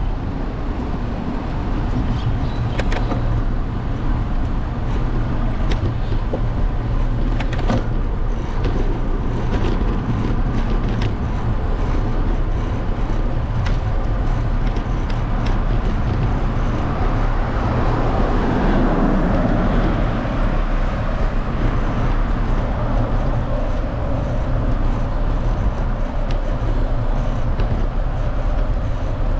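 Wind buffeting the microphone and road noise while riding in traffic, a steady low rumble with a few short rattles. A vehicle passes, swelling louder from about 17 to 20 seconds in.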